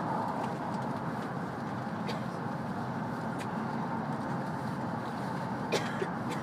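Steady running noise of a W7-series shinkansen heard from inside the passenger cabin, a continuous low rumble and rush, with a few light clicks and a sharper knock near the end.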